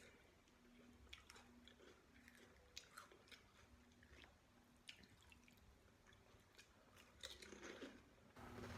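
Faint close-up chewing of crisp snack food: scattered small crunches and mouth clicks.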